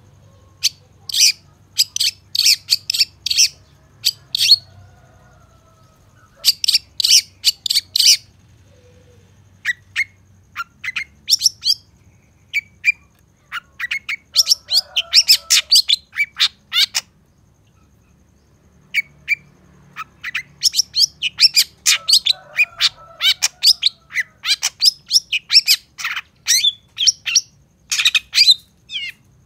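Long-tailed shrike singing in rapid runs of sharp, clipped notes, phrase after phrase with short pauses between. It is a shrike's challenge song, used to provoke and train other shrikes.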